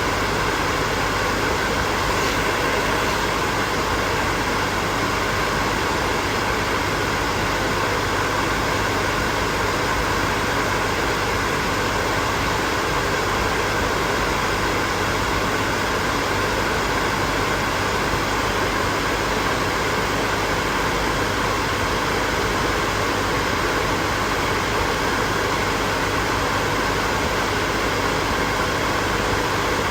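Hair dryer running continuously: a steady rushing blow of air over a constant motor hum, with no change in level.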